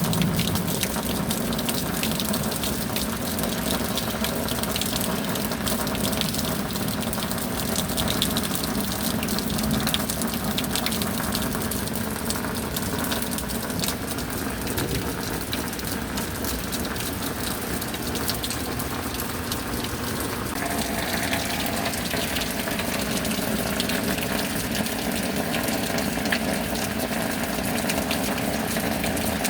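Steady rain with water gushing and running, an even rushing noise. Underneath is a faint steady hum that shifts about twenty seconds in.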